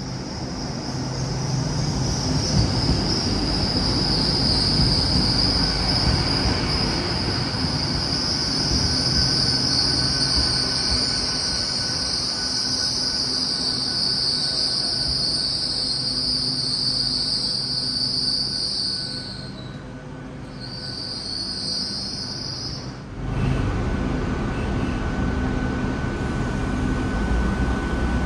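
A passing train's wheels squealing on the rails: a loud high-pitched squeal held for most of the time over a low rumble. The squeal breaks briefly, returns, and then cuts off suddenly about three quarters of the way through, leaving only the low rumble.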